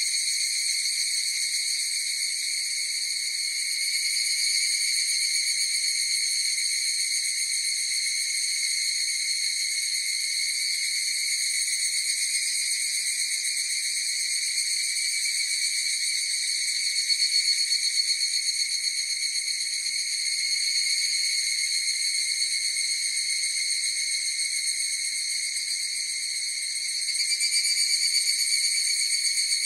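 A chorus of higurashi (evening cicadas, Tanna japonensis) calling: a continuous high, ringing drone that swells slightly a little past halfway and again near the end.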